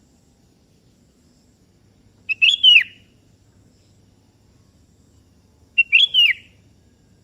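Sooty-headed bulbul (kutilang) singing two short phrases about three and a half seconds apart, each a quick run of clear notes ending in a falling slur.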